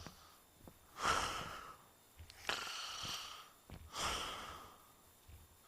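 A person breathing heavily close to the microphone: three long breaths, about a second and a half apart.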